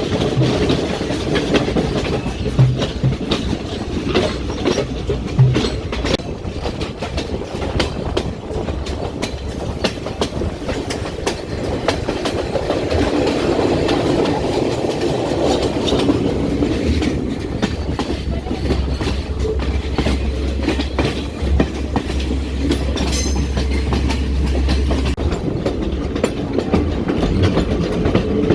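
Podi Menike passenger train running along the track, its wheels clicking over the rail joints over a steady rumble. A low steady hum comes in past the halfway point and fades out near the end.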